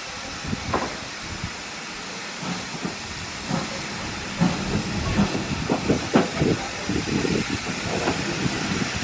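Steam train of British Railways Mk1 coaches behind an Ivatt 2MT tank locomotive: a steady hiss of steam with irregular knocks and clanks from the train, which grow busier and louder from about halfway.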